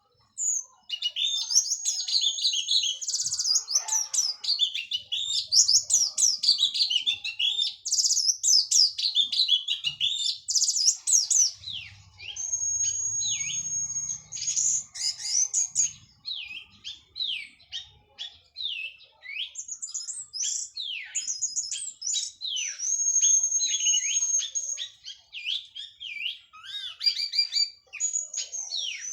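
Orange-headed thrush of the local Cililin strain, just through its moult, singing a long, continuous song of rapid high chirps, sweeps and trills. A few long, steady high whistles are held in it, the first about halfway through and again near the end.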